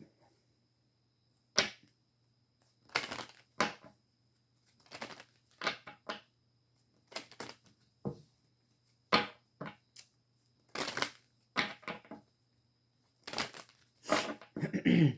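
A deck of tarot cards being handled and shuffled: short, irregular rustling snaps of the cards, about a dozen, with pauses between them.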